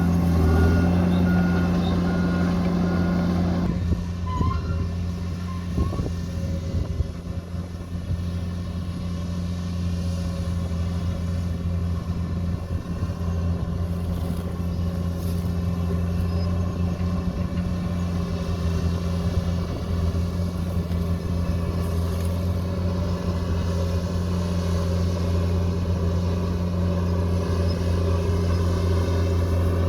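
Heavy construction machine's diesel engine running steadily with a deep, even drone. A higher whine drops out about four seconds in.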